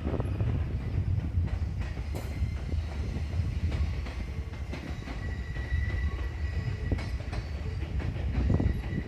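JR East electric train rolling into a depot: a steady low rumble with irregular clicks of wheels over rail joints, and a thin high wheel squeal for a few seconds in the middle.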